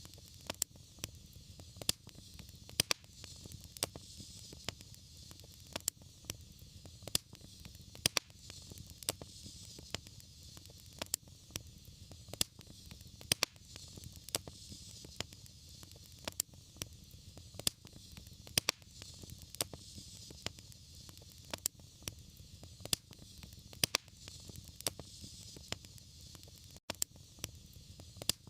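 Fireplace fire crackling, with irregular sharp pops several times a second over a steady hiss and a low rumble.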